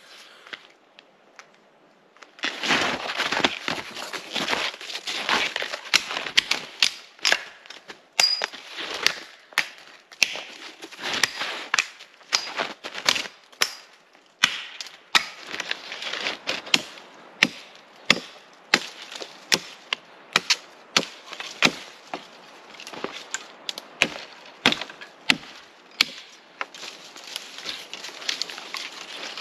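Wood being chopped: a long run of sharp cracking strikes, about one or two a second, starting a couple of seconds in.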